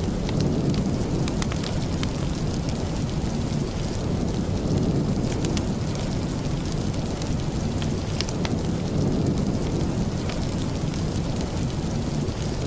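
Steady rain with a deep, constant rumble underneath, and scattered small sharp clicks throughout.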